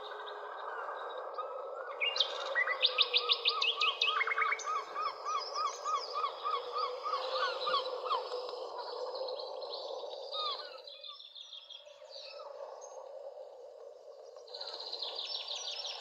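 Several wild birds singing and calling: fast high trills a few seconds in and again near the end, and a run of evenly repeated lower chirps in between, over a steady low rushing background noise.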